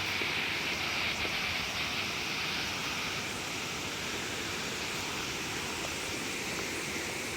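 A steady rushing noise with no break or change.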